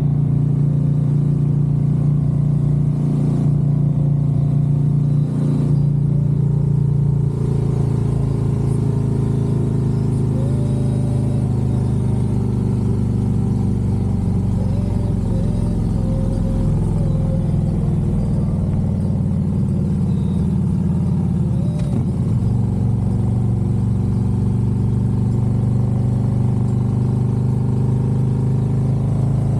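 Harley-Davidson Road Glide's V-twin engine and exhaust running under way, heard from the rider's seat. The engine note is steady, with its pitch shifting about a quarter of the way through and again about three quarters of the way through as the speed changes.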